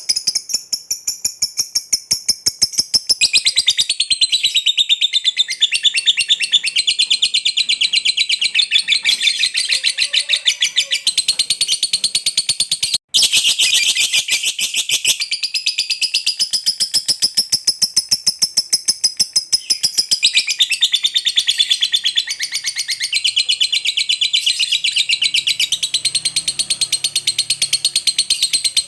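Lovebird 'ngekek': a long, unbroken run of fast, shrill chattering notes, many per second, with a brief drop-out about thirteen seconds in.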